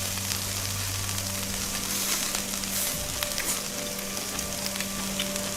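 Shrimp and vegetables sizzling on an electric tabletop grill: a steady frying hiss with small crackles and pops. A steady low hum runs underneath and drops out briefly near the middle.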